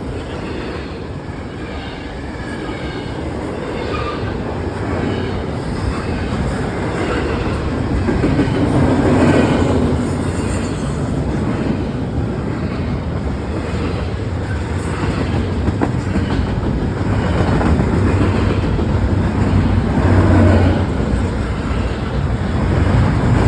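A train's cars rolling past at a grade crossing: a steady rumble of steel wheels on rail, swelling louder at times.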